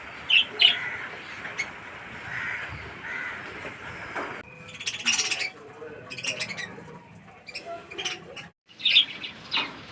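A colony of budgerigars chirping and chattering in short, overlapping calls, busiest about halfway through and again near the end.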